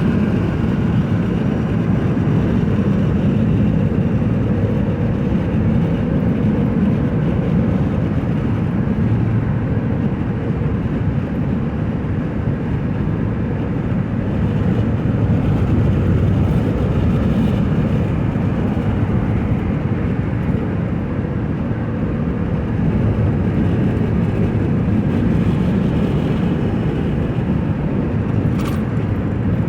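Steady road and engine noise of a car driving on the freeway, heard from inside the cabin.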